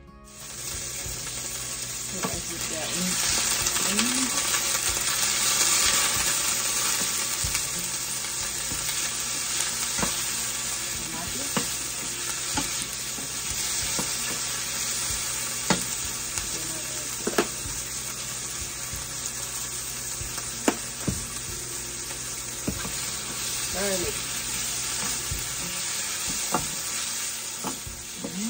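Chopped tomatoes sizzling as they sauté in a stainless steel pot, stirred with a wooden spoon. A few sharp clicks of the spoon against the pan stand out over the steady sizzle.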